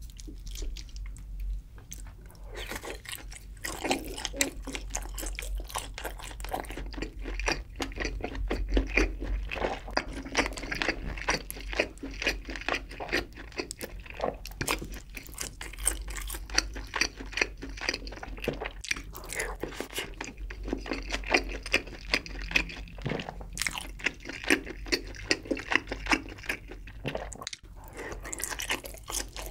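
Close-miked chewing of spicy braised chicken with Spam and sausage in thick red sauce: wet, crunchy mouth sounds with many quick clicks, starting about two and a half seconds in.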